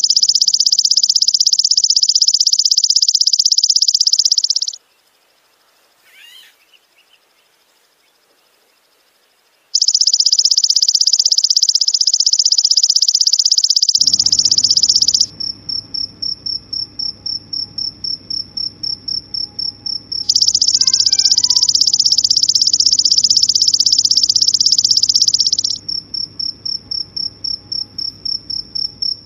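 Loud, high-pitched insect calls: long, even buzzes of about five seconds that stop abruptly, with a steady pulsing trill of about three or four pulses a second between them. Faint bird chirps come in now and then.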